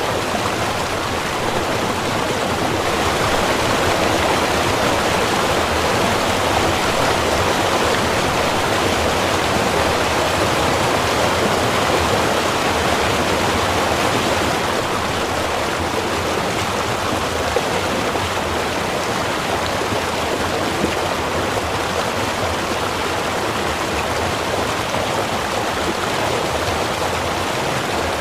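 Small river flowing over rocks: a steady rush and babble of water, swelling slightly for a stretch before settling back.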